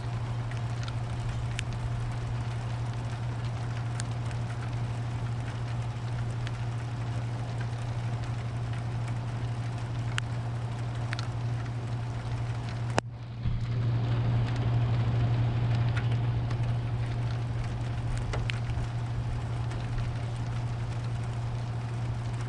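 Thunderstorm rain falling steadily, with scattered drop ticks over a low steady hum. A sharp click comes about 13 seconds in, after which the sound swells a little for a few seconds.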